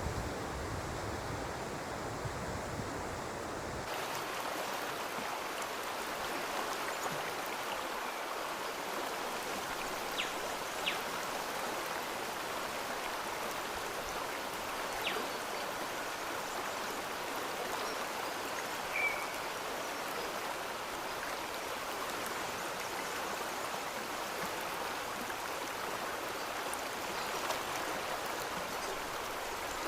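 Stream water running steadily, an even rushing flow with a few faint ticks over it. A low rumble under it stops suddenly about four seconds in.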